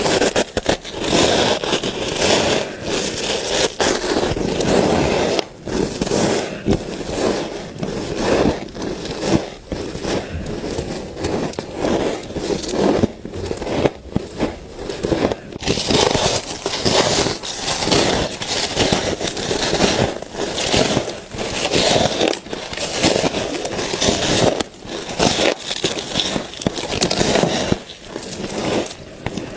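A person biting and chewing frost ice up close: a dense, continuous crackling crunch with rapid small cracks.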